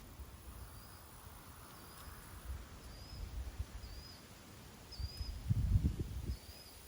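A steady series of short high chirps from a small animal, one about every second. Underneath is low rumbling noise that swells into louder low thumps about five seconds in.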